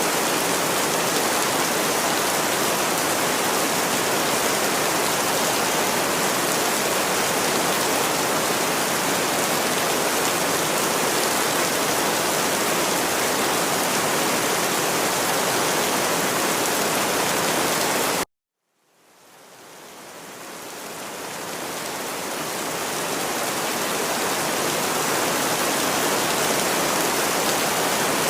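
Steady rain, an even hiss of falling drops. About two-thirds of the way through it cuts out suddenly for a moment, then fades back in over several seconds, as at the seam of a looped recording.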